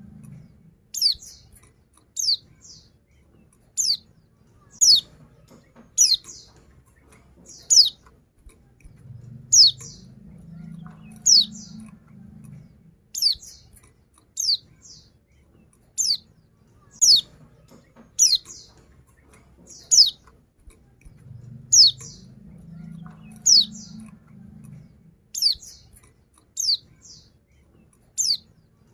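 Female white-eye (pleci) giving short, sharp, high calls that sweep downward, one about every second, repeated steadily. It is a female calling to males.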